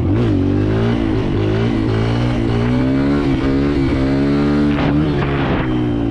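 Kawasaki KLX140L dirt bike's single-cylinder four-stroke engine revving as the bike accelerates: a quick blip, then the pitch climbing in steps, and falling off near the end.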